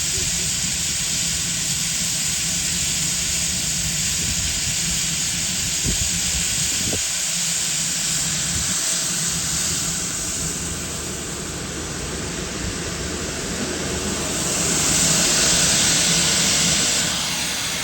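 Steam locomotive standing with steam hissing steadily over a low rumble; the hiss swells louder for a couple of seconds near the end.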